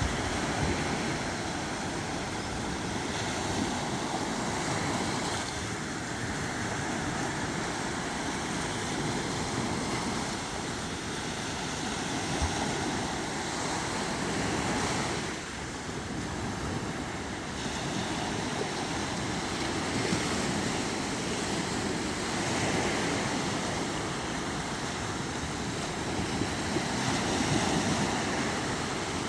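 Sea waves washing onto a shore in a steady wash that swells and eases every few seconds, with wind on the microphone.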